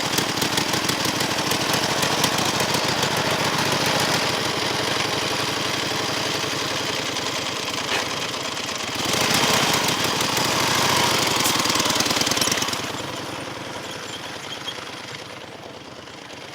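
Vintage motorcycle engine running with a fast, even beat, loudest about nine seconds in, then fading away.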